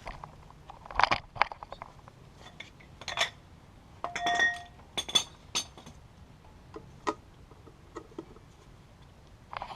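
Metal hand tools clinking and knocking as they are picked up and handled, in a scatter of separate clicks, with one short ringing clink about four seconds in.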